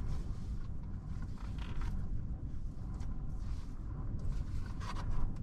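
A steady low outdoor rumble with a few faint clicks and taps on top.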